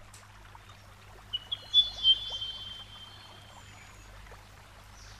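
Quiet trickling stream water. Between about one and a half and two seconds in comes a quick run of four high chirps, the last ones held briefly.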